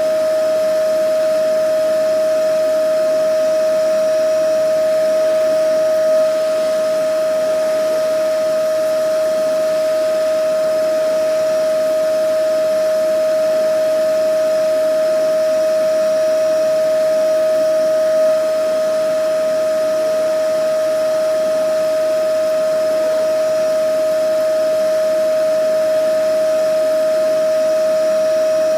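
Vacuum cleaner running steadily, a constant high-pitched whine over a rushing of air, with no change in speed.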